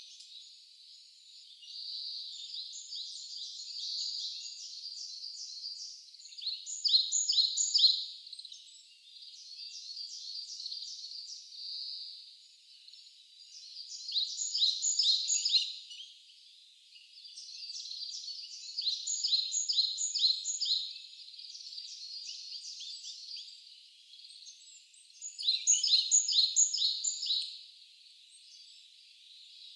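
Wild songbird singing in repeated phrases, each a quick run of high, down-slurred notes lasting a second or two and coming every few seconds, over a faint steady high hiss.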